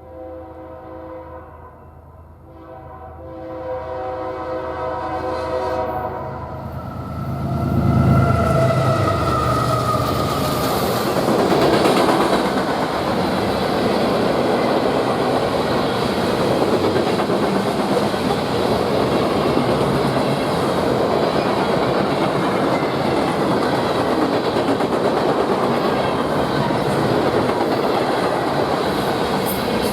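A freight train's diesel locomotive sounds its K3LA three-chime horn in several blasts as it approaches a grade crossing. The locomotive then passes, loudest about eight seconds in. The freight cars follow, rolling by with steady wheel and rail noise and clickety-clack.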